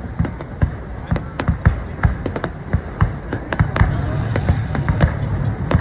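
Fireworks going off: a quick, irregular run of sharp bangs and pops, several a second. Underneath is a low steady rumble that grows stronger about halfway through.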